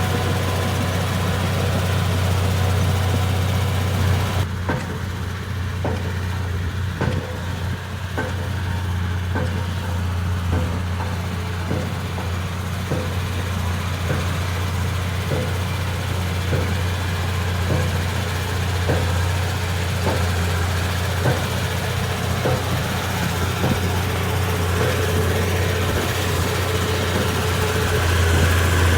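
Komatsu D31P crawler bulldozer's diesel engine running steadily. From about four seconds in, a regular clank repeats about one and a half times a second over the engine.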